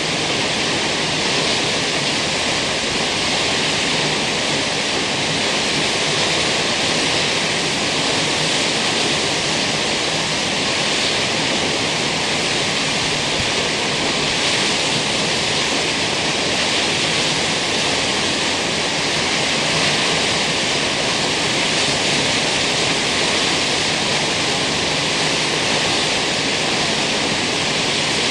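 Kegon Falls, a large waterfall, rushing steadily: a loud, unbroken wash of falling water.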